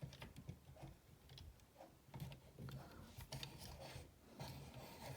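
Faint scattered clicks and taps of a plastic transforming-robot figure being handled, over a low steady hum.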